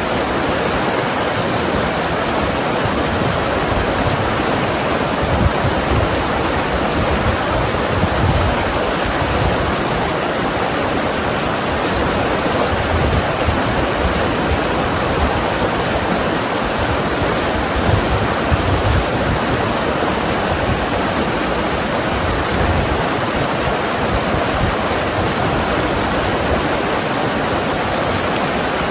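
Mountain river flowing and tumbling over rocks: a steady, full rush of water with a gurgling low end, unbroken throughout.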